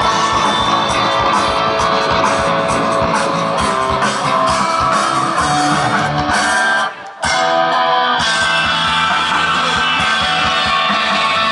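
Post-rock band playing live: layered electric guitars over bass and drums. The music drops out sharply for a moment about seven seconds in, then the guitars carry on with the drums lighter.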